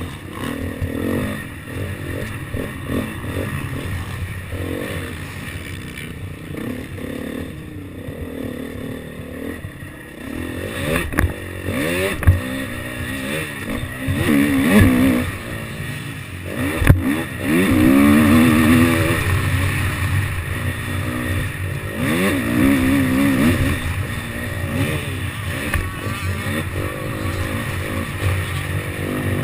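KTM motocross bike engine revving up and down as it is ridden around the track, its pitch rising and falling again and again. There are a few sharp knocks, at about eleven, twelve and seventeen seconds in.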